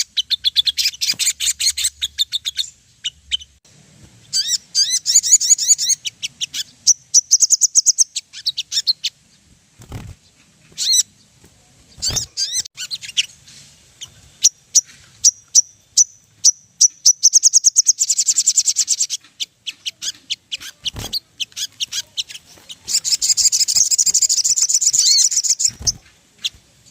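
Spiderhunter (sogon) song: bursts of rapid, high, repeated chittering notes and trills with short pauses between them, and a few sharp clicks.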